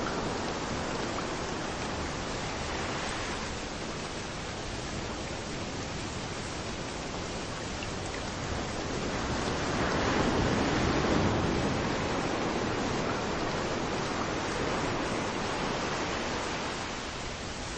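Steady rain falling, with waves washing in on a beach. One wave swells up and breaks about ten seconds in, the loudest moment.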